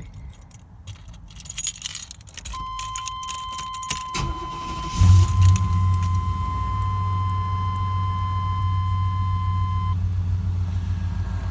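Car keys jangle in the ignition and a steady warning tone sounds. About four seconds in the starter cranks briefly, the engine catches with a short surge, and it settles into a steady idle on its first start after the repair.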